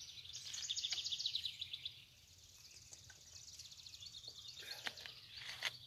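A bird trilling faintly: a rapid run of high notes lasting about a second and a half, followed by fainter high calls. A few faint clicks come near the end.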